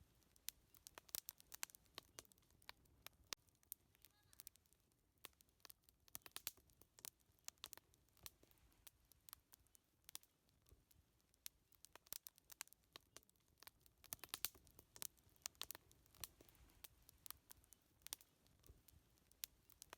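Quiet wood fire crackling, with many irregular sharp snaps over a faint low hiss.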